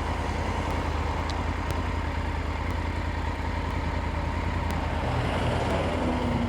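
Triumph Tiger 900 GT Pro's inline three-cylinder engine running steadily on the move, a constant low rumble under an even rush of wind and road noise.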